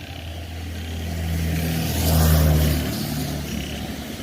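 A motor vehicle's engine droning low, swelling to its loudest between about two and three seconds in, then easing off.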